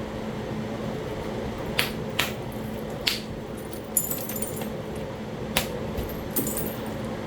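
About six irregular sharp clicks and clinks of quartzite and knapping tools knocking together, a couple with a short tinkle, over a steady low hum.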